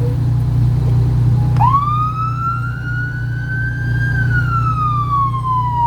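Fire truck siren wailing: it winds up sharply about a second and a half in, rises slowly, then glides slowly down before winding up again near the end, over a steady low engine hum.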